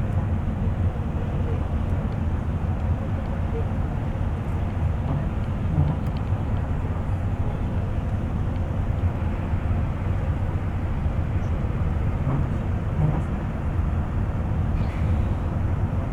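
Steady low rumble of a bus driving at speed, engine and tyre noise heard from inside the passenger cabin.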